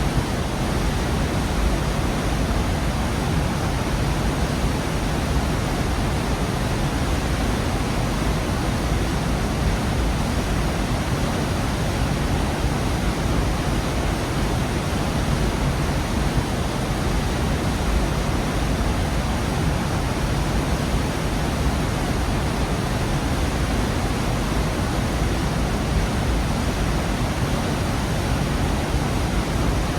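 Waterfall in a rocky gorge: water falling and rushing in a steady, full roar of noise that does not change.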